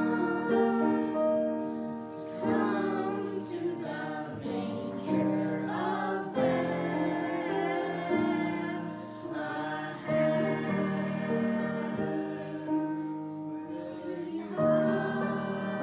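A choir singing in harmony, with long held notes that change every second or two.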